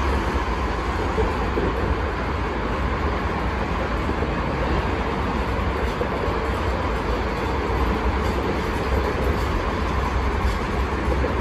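Union Pacific weed sprayer maintenance train rolling past at low speed: a steady rumble of the railcars' wheels on the rails and the running engine.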